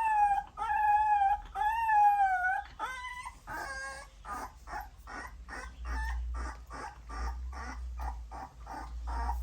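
Nursing puppies whining: three long, high-pitched cries in the first three seconds, then a run of short, quick sounds about three a second.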